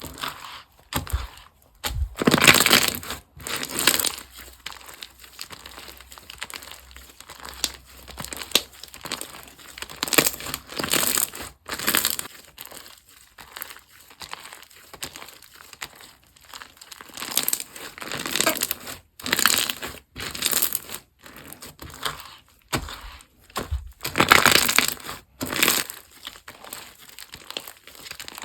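Slime being squeezed, stretched and pressed by hand close to the microphone, in irregular bursts of squishing and crackling.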